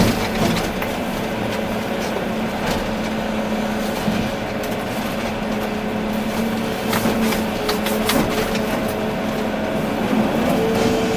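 Volvo EC380D excavator at work: its engine and hydraulics run steadily with a held hum that shifts in pitch near the end, over scattered clanks and knocks.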